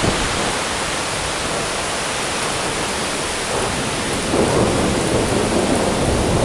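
Heavy thunderstorm rain pouring steadily, with a low rumble of thunder swelling about four seconds in.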